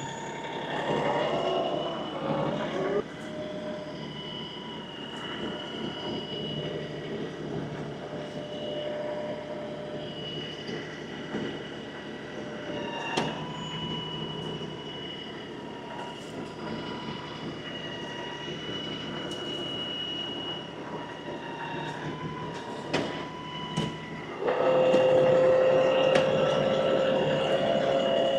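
LS XR315 compact tractor's diesel engine running steadily with a whine over it and a few sharp clunks, getting louder with a strong steady tone near the end.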